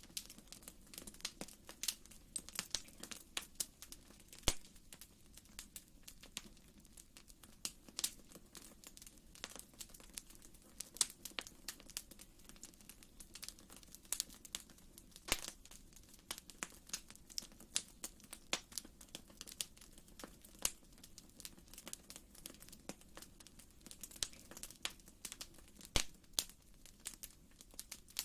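Wood fire in a fireplace crackling: irregular sharp pops and snaps, some louder than others, over a faint steady low rumble.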